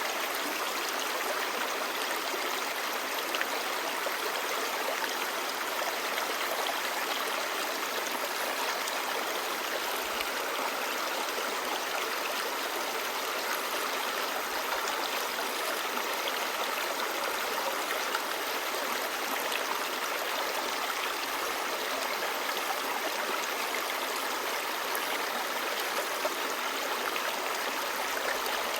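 A clear, shallow stream babbling steadily over rocks: an even, unbroken rush of running water.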